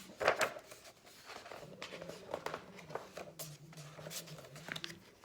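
Rustling and light taps of a picture book's pages and cover being handled and held up, with a faint low hum underneath.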